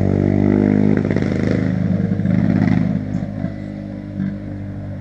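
Motorcycle engine running loudly as a motorcycle passes, then fading after about three seconds.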